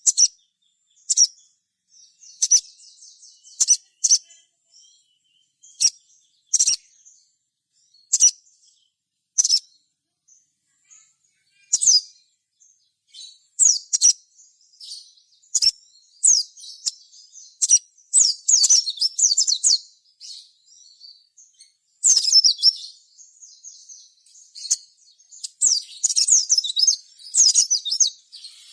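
Little spiderhunter (sogon / sogok ontong) calling: sharp, high, short chirps repeated every second or so, breaking into faster chattering runs of notes from about halfway through.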